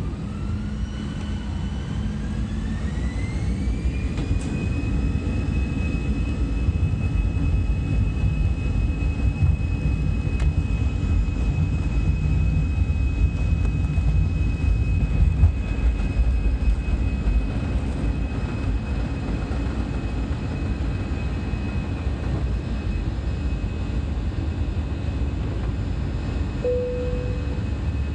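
Airbus A320 jet engines spooling up to takeoff thrust, heard from the cabin. Their whine rises in pitch over the first few seconds and then holds steady over a heavy rumble that grows through the takeoff roll and eases slightly later. A brief low tone sounds near the end.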